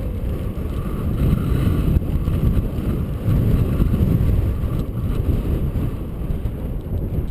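Wind buffeting a GoPro's microphone while riding a bicycle: a steady, gusting low rumble.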